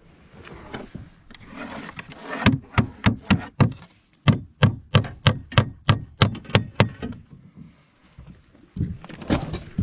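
Hammer driving nails to fix fibre-cement artificial slates: a quick run of sharp blows, about three a second, with a brief pause partway and a few more knocks near the end.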